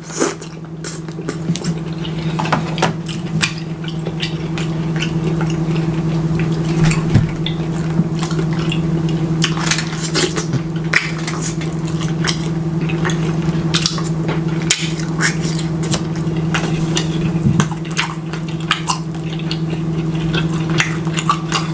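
Close-miked eating: wet chewing, smacking and mouth clicks from a man biting into sauced chicken held in his hands, over a steady low hum.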